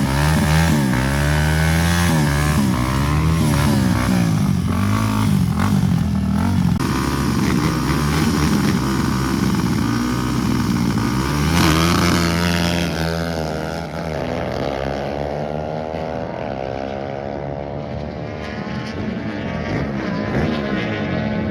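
Racing motorcycle engines at full throttle in a drag race, the pitch climbing and then dropping again at each gear change, over and over. After about twelve seconds a second set of rising engine notes overlaps the first.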